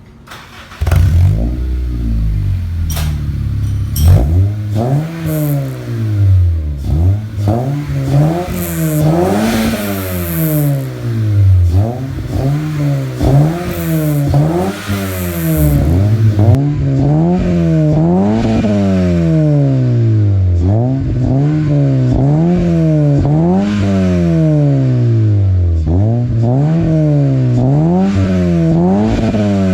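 2008 Honda Civic's engine sounding through a full aftermarket exhaust system, revved in repeated blips: the pitch climbs and falls again and again, about every one and a half to two seconds. The sound begins abruptly about a second in.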